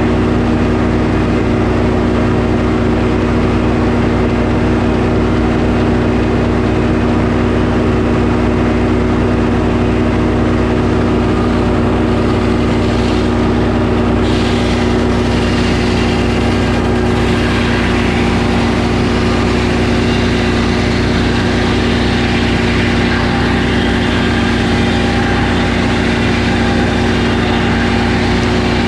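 Sawmill engine running steadily at a constant speed, loud throughout.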